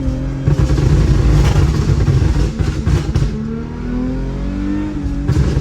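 Toyota Mark X's swapped-in 3.5-litre 2GR-FSE V6 accelerating through its stainless valvetronic exhaust: a loud, rough exhaust note about half a second in, easing to a quieter, rising engine note past the middle, then pulling hard again near the end.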